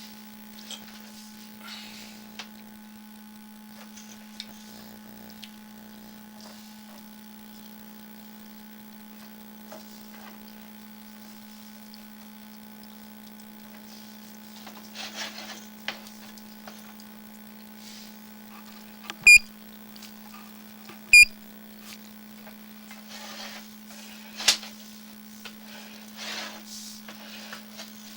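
Steady electrical hum from sewer inspection camera equipment, with two short electronic beeps about two seconds apart past the middle as the camera's control unit is worked to take an on-screen measurement. Faint clicks and handling noises between.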